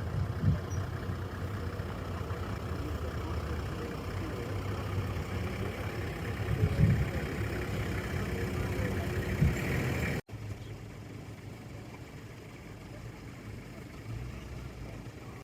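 A vehicle engine idling with a steady low rumble, with a few low gusts over it. The sound cuts out abruptly about ten seconds in and goes on quieter.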